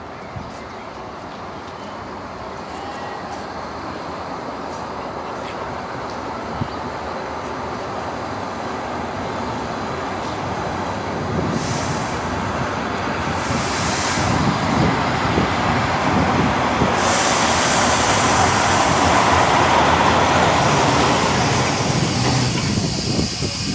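Train coming into the station: its rumble and rail noise grow steadily louder for about twenty seconds, with bursts of high hiss from about halfway, then ease off near the end.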